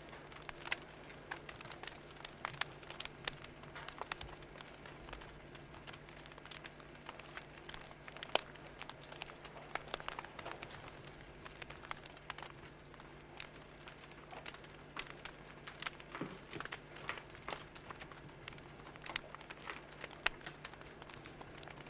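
Fire crackling: irregular sharp pops and snaps, several a second, over a low steady hum.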